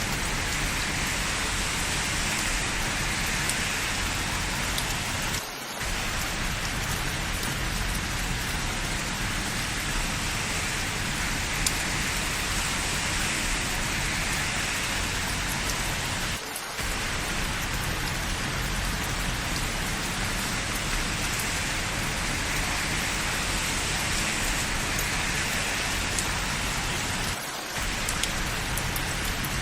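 Steady rain falling on hard surfaces, an even hiss that dips briefly three times, about eleven seconds apart.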